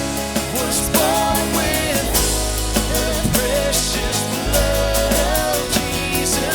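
Worship band playing contemporary Christian music with drum kit and bass under a wavering melodic line, with no sung words.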